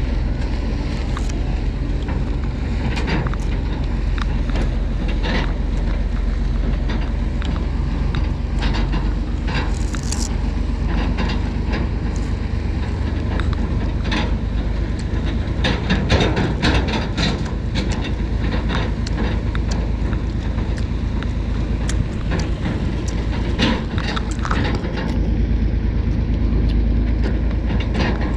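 Wind buffeting the microphone in a steady low rumble while riding a bicycle, with irregular clicks and rattles, bunched together about halfway through.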